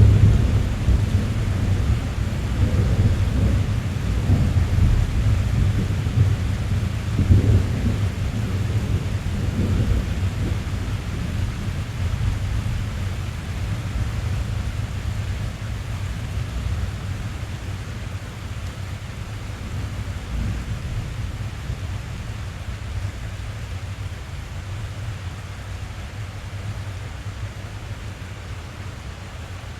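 Rain pattering on a car's roof and glass, heard from inside the cabin, under a long low rumble of thunder that is loudest in the first ten seconds and slowly fades away.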